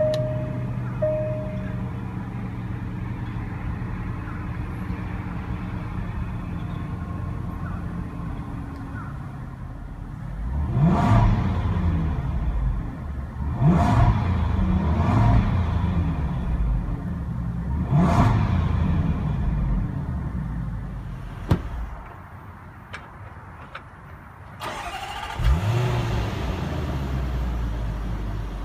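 A 2015 Range Rover Supercharged's 5.0-litre supercharged V8 idles steadily, with a few dashboard chime beeps at the very start. It is then revved with about four quick blips, each rising and falling, and once more near the end.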